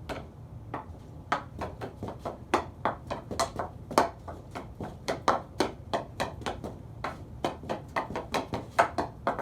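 Hockey stick blade tapping a puck back and forth on a hard floor in fast figure-8 stick handling: a quick, uneven run of sharp clicks, about four a second.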